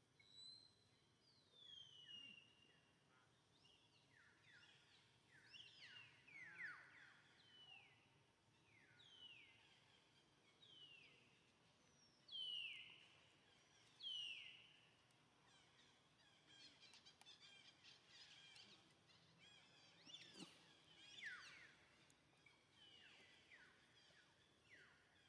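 Faint bird calls: short whistles falling in pitch, repeated every second or two, with a few light clicks about two-thirds of the way through.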